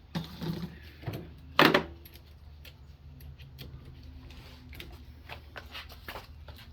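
Metal hand tools clinking and rattling as they are handled, with one louder clank about a second and a half in, then lighter scattered clicks.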